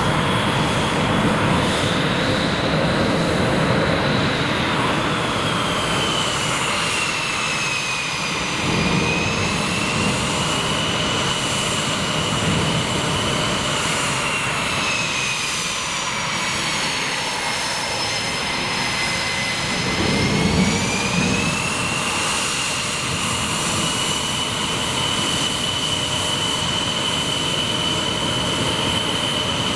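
F/A-18 jet's twin turbofan engines running steadily loud, with a high turbine whine that slowly falls in pitch, dips lowest about two-thirds of the way through, then rises again and holds.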